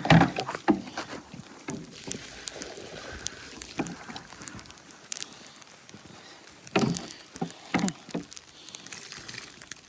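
Water sloshing and splashing as a bucket is emptied into an animal's water trough, with irregular knocks and scrapes from the bucket and trough.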